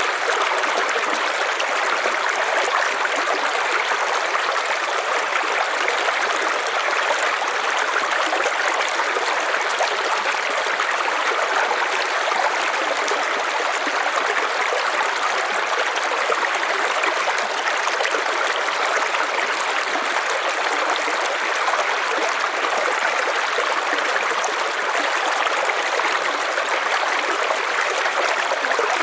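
River water flowing and babbling over rocks, a steady, even rushing.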